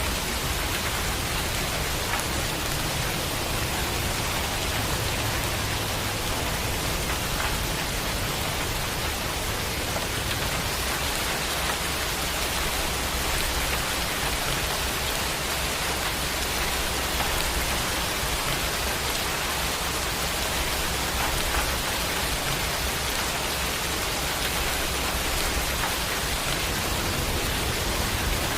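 Steady rain falling: a dense, even hiss with a low rumble underneath and no separate thunderclaps.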